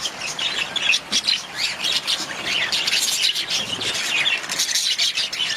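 A flock of budgerigars chattering: many overlapping chirps, warbles and short squawks with no pause.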